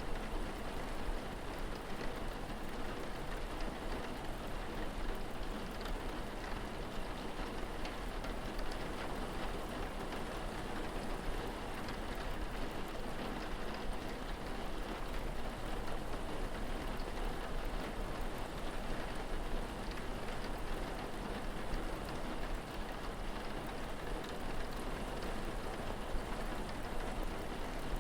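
Steady rain falling, an even wash of noise with no breaks, over a constant low hum.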